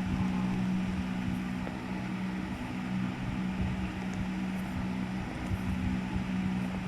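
Ceiling fans running together: a steady motor hum with rushing air and low rumble.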